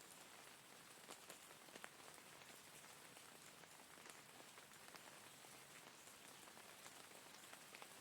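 Faint, steady rain falling, with scattered individual drops ticking sharply, a few of them louder between one and two seconds in.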